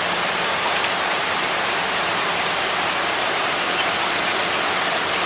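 Steady monsoon rain falling, an even, unbroken hiss of rain on surfaces.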